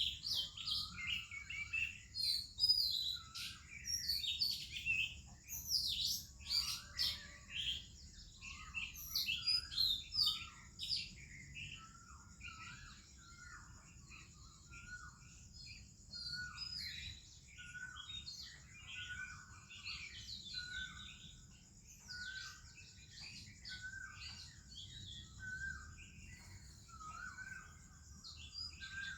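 Morning chorus of songbirds, including an oriental magpie-robin, with many quick overlapping chirps and whistled sweeps. After about twelve seconds the chorus thins, and one short, lower note repeats roughly once a second under lighter chirping. A steady high hiss runs underneath.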